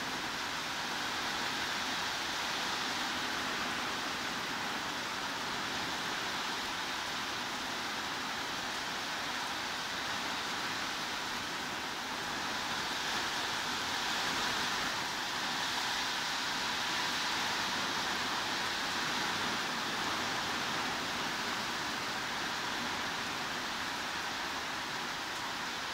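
Steady heavy rain, an even hiss that barely changes, a little fuller around the middle.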